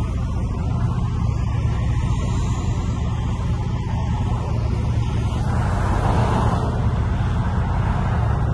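Infiniti G37's 3.7 L V6 running steadily, heard from inside the cabin as a low, even drone. There is a brief swell of hiss about six seconds in.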